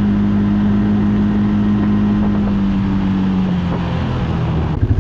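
ATV engine running at steady revs, then the revs fall away over a second or so and it drops into a rhythmic, pulsing idle near the end, just after cresting a steep snowy hill.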